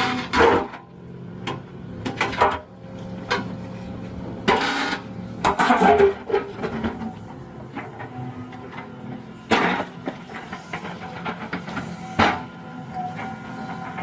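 Tractor engine running steadily, with several loud knocks and clanks scattered through, the loudest a little before halfway and near the end.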